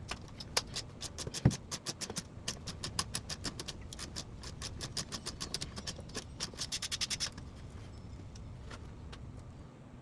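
Sharp metallic clicks and light rattling from hand tools and metal parts being worked. About six seconds in comes a quick run of evenly spaced clicks lasting about a second, then the clicking stops.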